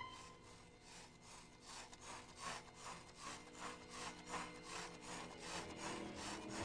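Faint, steady rhythmic scraping, about three back-and-forth strokes a second.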